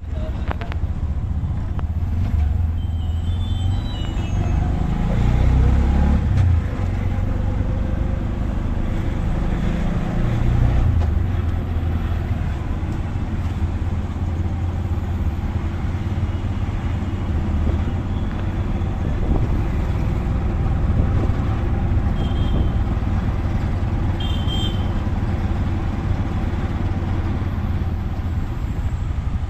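Auto-rickshaw engine running through city traffic, revving up a few seconds in and again about ten seconds in. Short high horn toots sound around three seconds in and twice more near the end.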